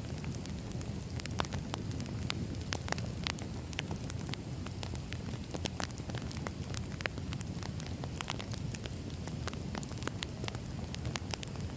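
Wood fire burning, with a steady low rumble of flames and irregular sharp crackles and pops from the burning logs.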